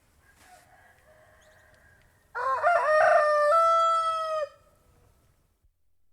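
Domestic rooster crowing loudly once, a full cock-a-doodle-doo with a stepped, rising start and a long held final note that cuts off sharply, about two seconds long. A fainter crow from another rooster comes just before it.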